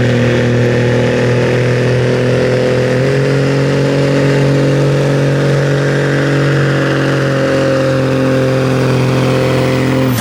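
An engine running loud and steady at a constant speed. Its pitch steps up slightly about three seconds in.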